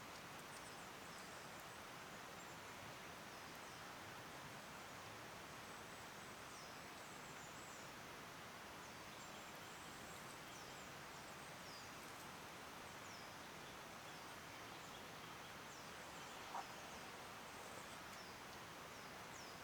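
Faint, steady forest ambience with a small bird repeating a short, high, downward-sliding call every second or two, and a single soft knock near the end.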